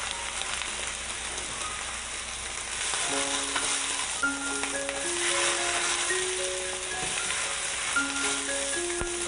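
Jumbo prawns sizzling in a stainless steel frying pan with diced onion and garlic, the sizzle rising about three seconds in as a wooden spatula turns them, with a few light knocks. A simple melody of background music plays over it.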